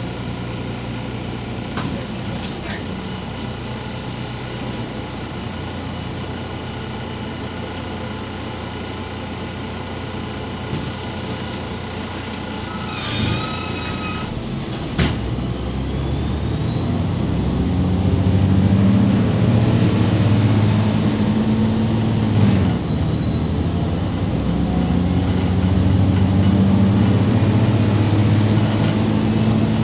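Inside a MAZ 203 city bus: the diesel engine running, with a short hissing burst about halfway through. The bus then pulls away, its engine note and a whine rising with speed, falling once at a gear change, then rising again.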